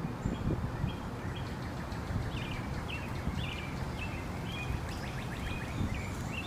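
A bird calling over and over in short chirps, about two a second, over a steady outdoor background rumble.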